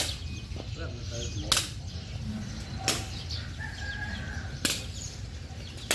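Sharp hits in a game, about one every second and a half, five in all, with birds chirping between them over a low steady rumble.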